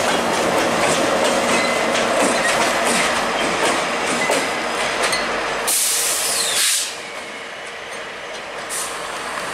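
GO Transit MP40PH-3C diesel locomotive and train wheels rolling past close by, with many short wheel clicks over the rail. A loud hiss lasts about a second, around six seconds in. Then the sound drops to a quieter steady rumble as the locomotive draws away.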